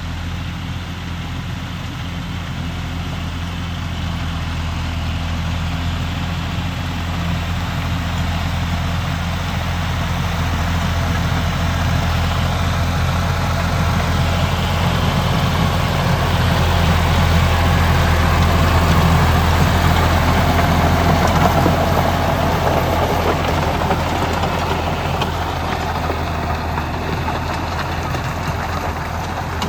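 John Deere 5310 tractor's diesel engine running steadily, growing louder to a peak about two-thirds of the way through, then easing off.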